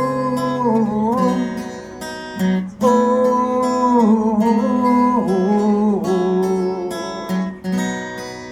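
Acoustic guitar, capoed at the fourth fret, strummed steadily under a wordless sung "oh" that is held and slides in pitch.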